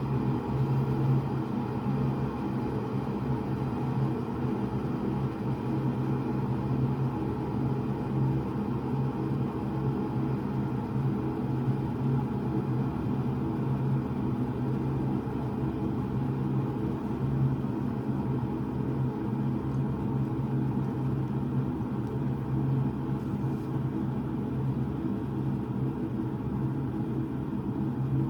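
Taylor Swoden electric kettle heating water, a steady rumble as the water works up toward the boil.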